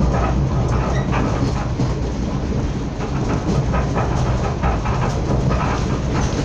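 Passenger train running at speed, heard from inside the carriage: a steady low rumble with the wheels clicking over the rail joints.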